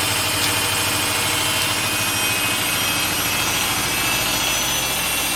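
Samsung front-load washing machine in its high-speed final spin: a steady whirring rush of the drum with a faint high whine from the motor.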